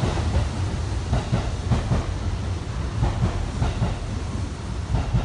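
Train running on the rails with a steady rumble, its wheels clacking irregularly over rail joints; the rumble fades slowly as it moves away.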